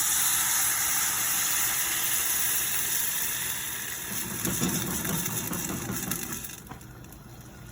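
Chicken stock poured into a hot pan of rice toasted in oil, hissing and sizzling loudly as it hits the hot metal; the hiss slowly dies away over about six seconds as the pan cools under the liquid.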